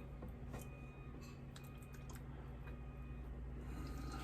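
Utensil packing a tuna stuffing into bell peppers: faint scattered clicks and soft squishes over a steady low hum.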